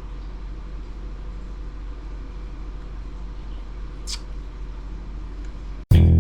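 Steady low background hum with one short hiss about four seconds in; guitar music cuts in abruptly near the end.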